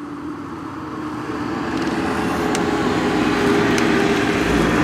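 Two Lamborghini supercars approaching on the sprint course. Their engines hold a steady note and grow gradually louder as they near.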